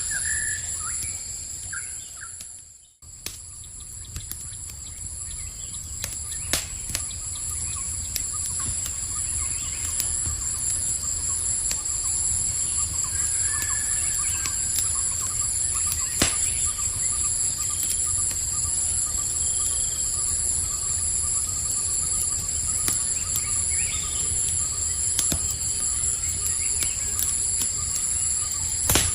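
Night ambience of steadily trilling insects, with scattered sharp crackles and pops from a campfire and a few short bird chirps. The sound fades almost to nothing about three seconds in and swells back up.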